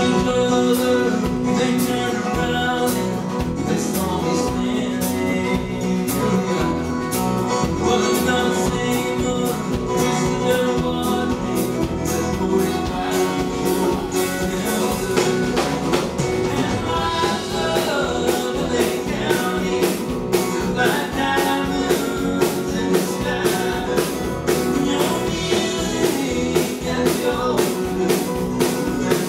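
Live country band playing, guitars over a steady beat.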